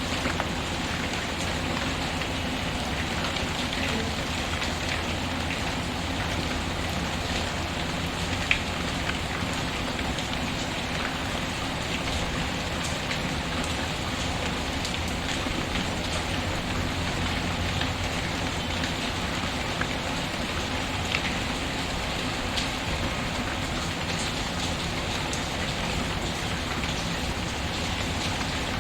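Steady rain patter, mixed with a fireplace's wood fire that gives an occasional sharp crackle, the loudest about eight seconds in.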